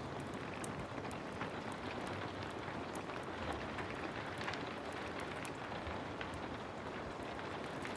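Steady heavy rain mixed with a wood fire crackling: a constant even hiss with many small irregular crackles and pops scattered through it.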